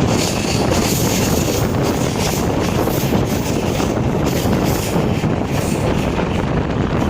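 Passenger train running at speed, heard from on board: a steady rumble and rattle of wheels on track, with wind buffeting the microphone.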